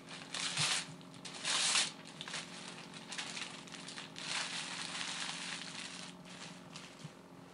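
Wrapping paper crinkling and tearing in bursts as a Christmas present is unwrapped, loudest in the first two seconds and again from about four to six seconds in.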